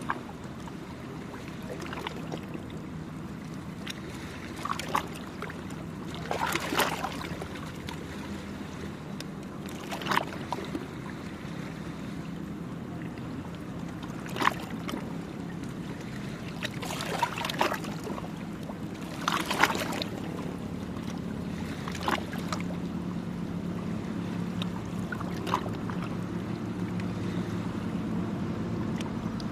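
Small waves lapping and splashing at the shore in short surges every few seconds. Under them runs a steady low engine drone that grows slightly louder near the end.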